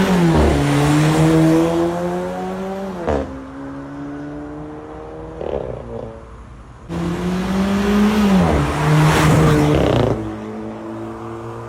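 Volkswagen Virtus exhaust as the engine is revved twice. The revs climb and are held for a few seconds, then drop back suddenly, about three seconds in and again near ten seconds. Between the two revs the engine runs at a lower, settling speed.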